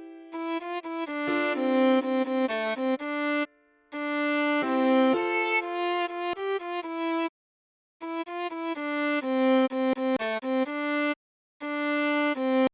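Solo viola playing a melody of separate bowed notes in short phrases, with two brief pauses partway through; the last note cuts off sharply.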